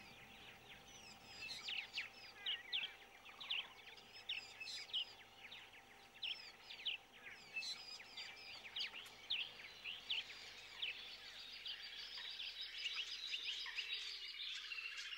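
Faint chirping of small birds, many short high calls, with a steady high insect-like buzz coming in about ten seconds in.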